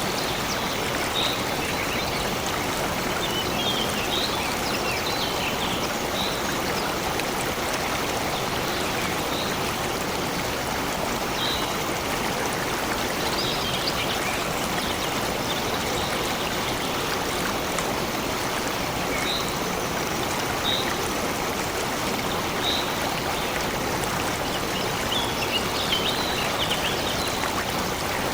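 A stream running steadily, with short, high bird chirps coming now and then, in small clusters.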